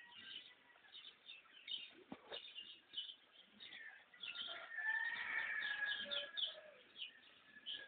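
Small birds chirping at sunrise: many quick, high chirps repeating throughout, with a louder, longer drawn-out call from about four and a half to six and a half seconds in.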